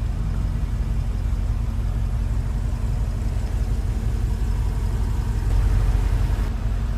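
A motor vehicle engine idling, a steady low rumble that swells slightly about five and a half seconds in.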